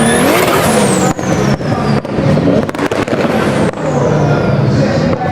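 Sports car engine sound effect, revving with a sweeping pitch that rises and then falls in the first two seconds, then running on steadily.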